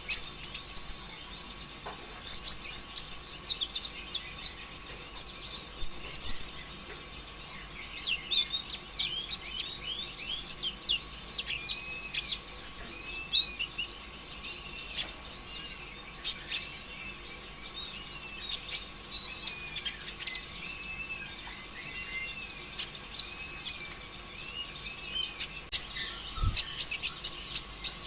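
Ruby-cheeked sunbird (kolibri ninja) singing non-stop in a fast, high chatter of sharp ticks and short arching chirps. A faint steady hum sits underneath.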